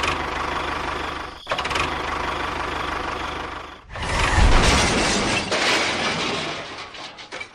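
A small model construction machine's motor running steadily, in several abruptly cut segments; the loudest stretch begins about four seconds in.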